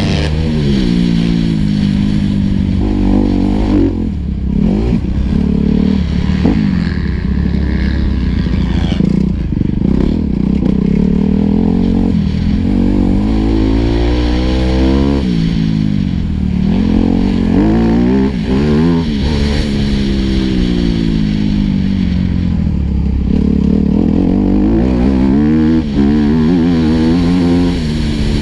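Four-stroke motocross bike engine ridden hard round a dirt track, revving up and falling off again and again as the rider opens and shuts the throttle through the corners and jumps.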